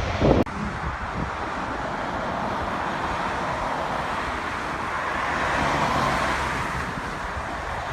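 Jet airliner engines heard as a steady rushing noise that swells a little and then eases, after an abrupt cut about half a second in.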